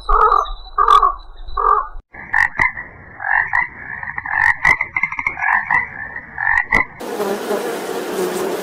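Frogs croaking: first a run of evenly spaced croaks, about two or three a second, then after an abrupt cut about two seconds in, a higher, rattling call broken by clicks. Near the end it switches abruptly to a steady buzz.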